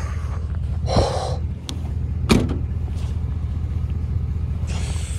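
Ford F-150 pickup driving, its engine and road noise a steady low rumble, with a sharp knock about two seconds in.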